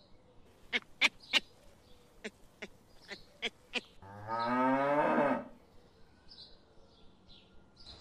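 About eight sharp clicks or knocks over the first four seconds, then a water buffalo lows once: a deep call about a second and a half long that rises slightly in pitch.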